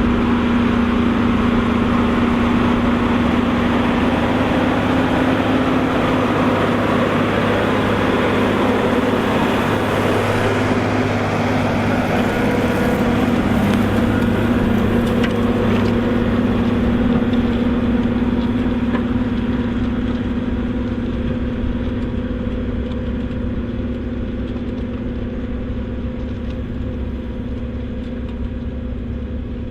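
Volvo BM 2654 tractor's diesel engine running steadily under load while pulling a plough, a constant droning hum that grows gradually fainter over the last third.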